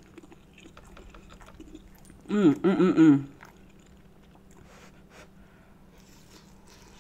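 A woman chewing and biting into a piece of kielbasa sausage, with small wet mouth clicks. About two seconds in there is a loud, wordless vocal sound about a second long.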